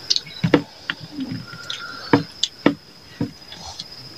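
Close-up mouth sounds of eating rice and chicken curry by hand: wet lip smacks and chewing clicks, about six sharp smacks spread unevenly. A thin, steady high tone runs faintly underneath.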